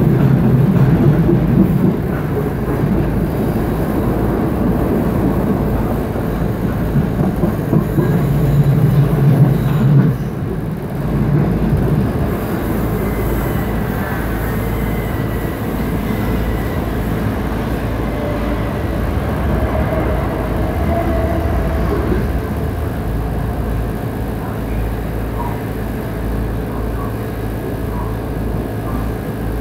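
Passenger train running on the rails, heard from inside the carriage: a steady low rumble and rattle, heavier for the first ten seconds or so, then quieter and even, with a few faint squeals from the wheels as it draws into a station.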